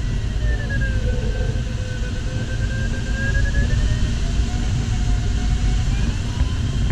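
Steady airflow rumble inside an LS4 glider cockpit, with an electronic variometer's continuous tone slowly sliding down and back up in pitch as the glider's rate of climb or sink changes.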